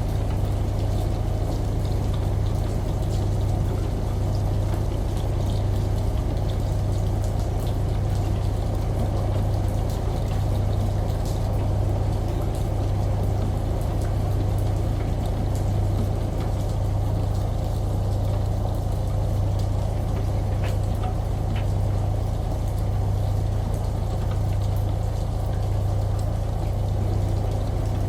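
Washing machine running with a steady low hum that swells gently about once a second, mixed with the sound of running water.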